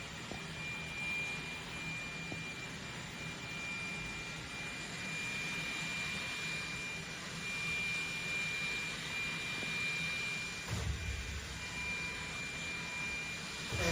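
Dreame D9 Max Gen2 robot vacuum running, its suction fan making a steady whirring hiss with a thin high whine. A low rumble lasts about a second near the end.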